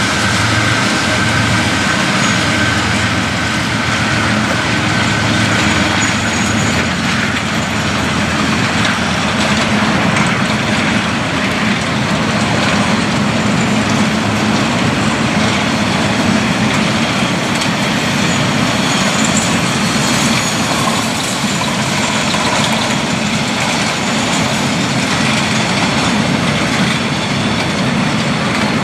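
Aurizon P class diesel-electric locomotives running past at close range. A steady high whine from them stops about six seconds in. After that comes the steady rolling rumble of a long string of grain hopper wagons passing.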